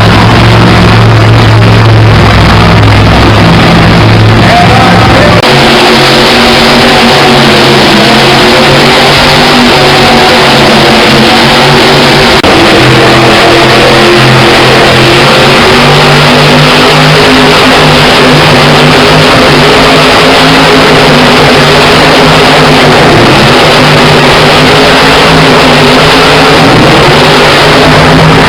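Monster truck engines running loud, revving up and down, with music playing along.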